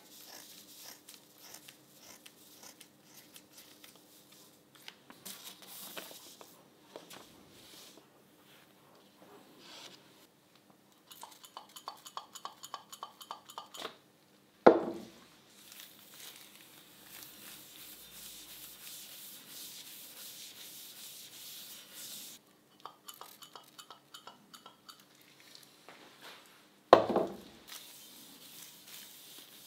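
Rubbing and scraping strokes, with two runs of quick even scrapes at about four a second and two sharp knocks about twelve seconds apart that are the loudest sounds.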